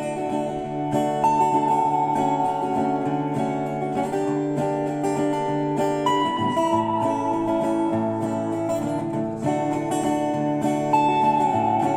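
Acoustic guitar playing the instrumental introduction of a folk song, strummed chords under a high held melody note that falls slightly and comes back three times.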